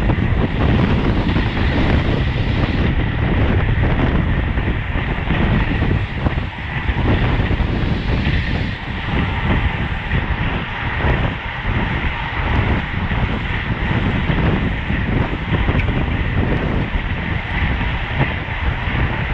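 Loud, steady wind rush buffeting the microphone of a camera on a road bicycle riding at race speed, mixed with tyre and drivetrain noise.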